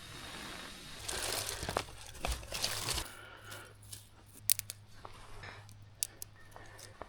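Crinkling and rustling of something being handled, loudest for a couple of seconds from about a second in, followed by a few sharp snaps or clicks.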